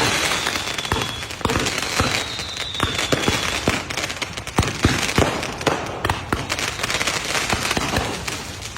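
Aerial fireworks going off in a rapid, irregular string of sharp bangs and crackles. Two high, slightly falling whistles sound over the bangs in the first few seconds.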